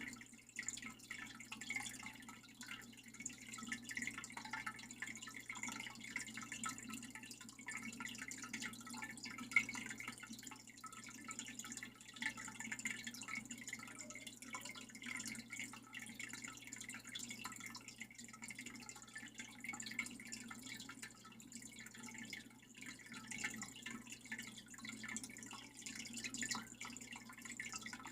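Water dripping and trickling steadily, like a small indoor waterfall, over a low steady hum. There is one sharper splash or tap about nine seconds in.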